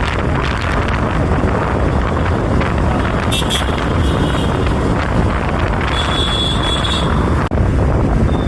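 Wind buffeting the microphone on a moving motorcycle, over a steady rumble of road and traffic noise. Two brief high tones come through the traffic, one about three seconds in and a longer one around six to seven seconds.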